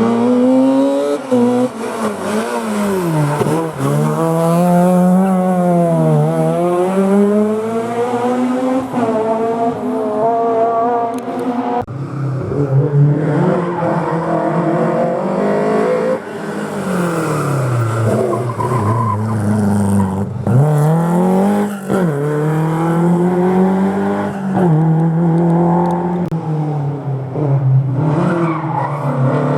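Historic rally car engines revving hard through a hairpin. The revs dip and climb again several times with gear changes as the cars brake and accelerate away. Partway through, the sound cuts abruptly to another car.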